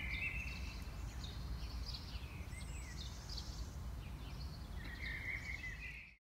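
Small songbirds chirping and warbling in short repeated phrases over a steady low rumble of outdoor background noise; all sound cuts off abruptly near the end.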